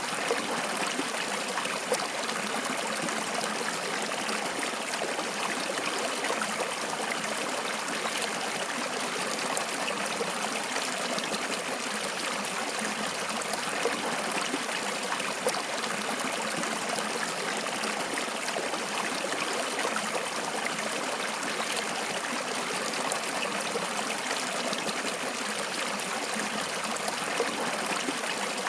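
Flowing water, a steady rush and trickle with a few brief splashes.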